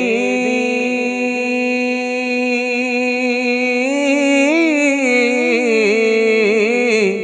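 A singer holding one long vowel of a Punjabi song, then ornamenting it with wavering turns and pitch slides about four seconds in.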